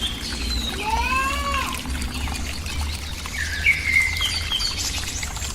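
Small birds chirping and whistling, with a quick run of arching, stacked notes about a second in and a clear whistled call near the middle, over a steady hiss of trickling water.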